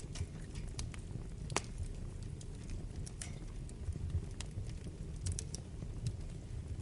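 Wood fire burning in a fireplace: a steady low rumble of flames with irregular sharp crackles and pops, one louder pop about a second and a half in.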